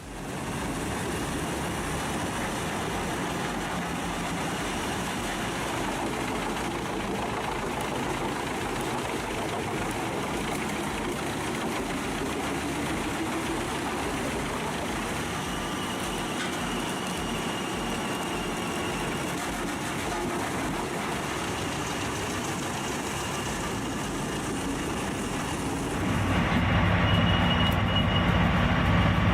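Large Pezzolato PTH1300/1500M wood chipper with its 1150 horsepower Caterpillar engine running, a steady, dense mechanical din at constant level. Near the end the sound steps up to a louder, deeper engine hum with a faint high whine.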